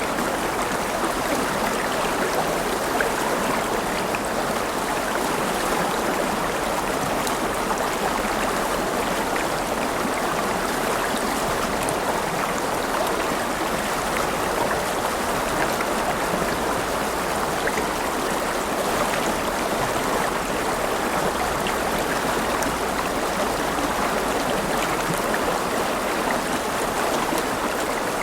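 River water flowing steadily over stones, a constant rushing and babbling with small splashes throughout.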